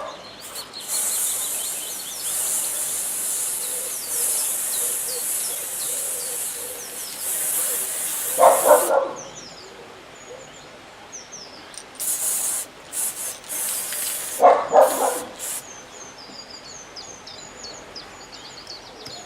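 Aerosol can of white acrylic spray paint hissing in one long spray of about eight seconds, then several short bursts. A dog barks twice in between, and these are the loudest sounds. Birds chirp faintly in the background.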